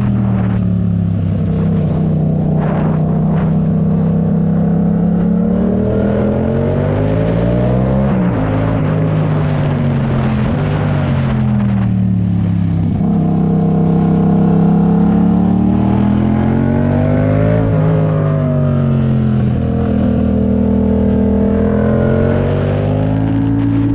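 Yamaha MT-07 parallel-twin engine under way. Its pitch falls and rises again and again as the throttle is closed and opened, with abrupt pitch changes about 8 and 18 seconds in.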